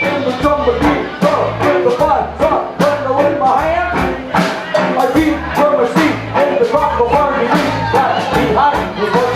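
Rock band playing with a drum kit keeping a steady beat under pitched melodic lines.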